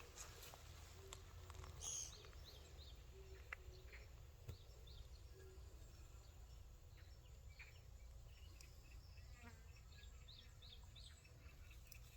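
Faint outdoor ambience: a steady low rumble with scattered short, high chirps and a few brief clicks.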